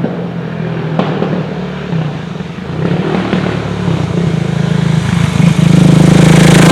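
Single-cylinder KTM 690 supermoto engine running, with a sharp click about a second in. It gets noticeably louder about five and a half seconds in.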